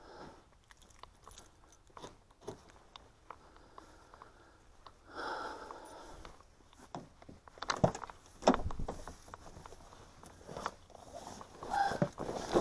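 Handling noises as a Remington 870 20-gauge pump-action shotgun is unloaded: rustling and small clicks, with two sharp clacks about eight seconds in, less than a second apart, and another near the end.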